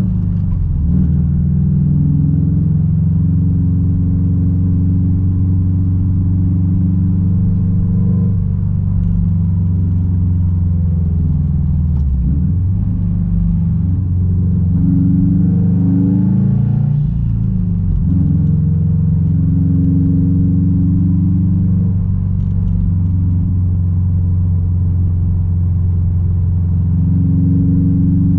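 Straight-piped 2006 Subaru WRX STI's turbocharged flat-four engine running under way with a steady, deep exhaust drone. Its pitch dips and recovers briefly twice, about halfway through and again a few seconds later.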